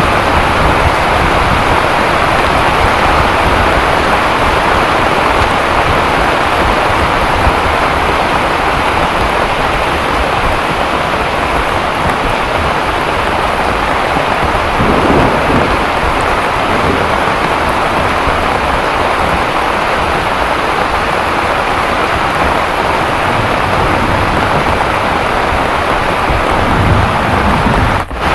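Heavy rain pouring down steadily, a dense even hiss, with a brief low rumble about halfway through.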